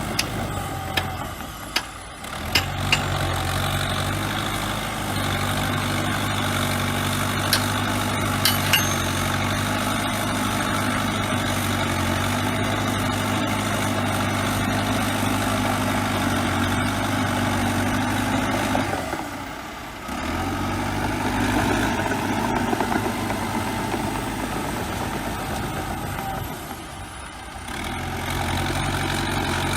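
Crawler bulldozer's diesel engine running steadily, with a few sharp clanks in the first several seconds; the sound drops away briefly twice, about two thirds of the way through and again near the end.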